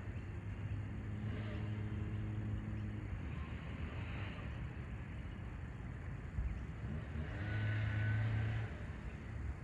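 Engine hum of passing motor vehicles, heard twice: a steady low drone in the first three seconds and again near the end, over a constant background hiss.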